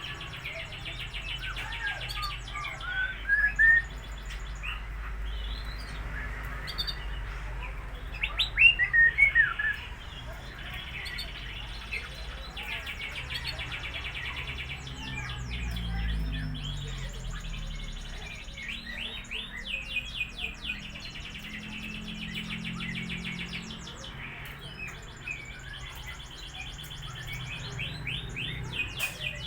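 Lovebirds chirping and chattering: a string of short, high, squeaky chirps, some rising in pitch, with louder bursts about three seconds in and again around nine seconds in.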